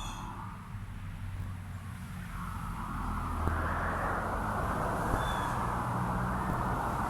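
A motor vehicle's engine running with a steady low hum, its noise swelling and growing louder from about two and a half seconds in, as of a vehicle passing. A single short bird chirp comes about five seconds in.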